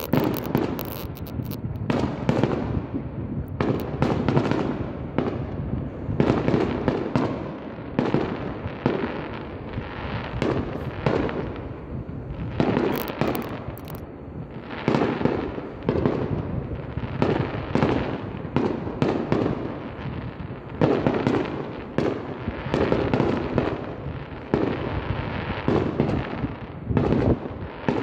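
Aerial firework shells bursting in a dense, continuous barrage: sharp booms following one another a second or less apart, overlapping throughout.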